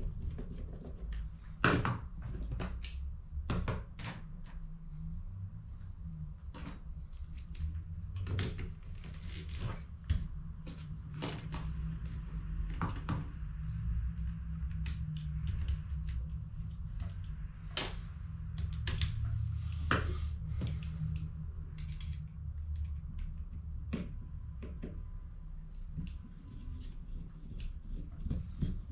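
Clicks, taps and knocks of plastic toner-cartridge parts being handled and worked on by hand, scattered irregularly throughout, with two sharper knocks about two seconds in and about ten seconds in, over a steady low hum.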